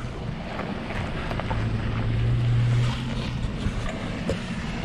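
A 4x4's engine running at low revs as the vehicle is guided down a rocky step, with wind buffeting the microphone.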